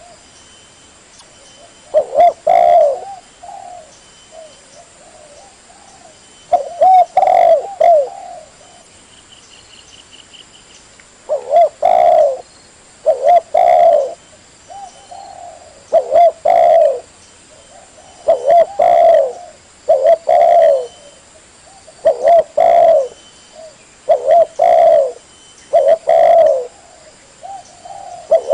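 Spotted dove cooing: short phrases of a few low coos, repeated every two to four seconds with quiet gaps between.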